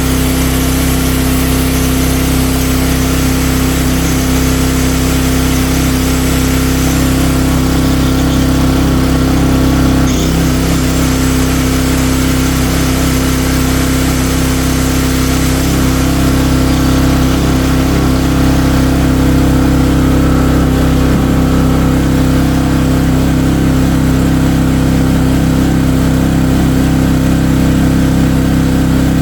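Dayton 2000-watt generator's 5 hp single-cylinder Briggs & Stratton engine running steadily at its governed speed, the first time it has run in years.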